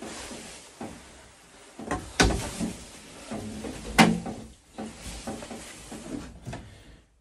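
Plumbing fittings and pipe parts being handled: scattered knocks and rustling, with two sharp clacks about two and four seconds in.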